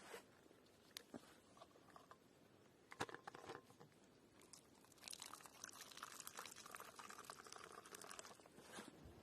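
Faint crunching and crinkling handling sounds, with a few sharp clicks in the first few seconds and a denser stretch of crackling about halfway through.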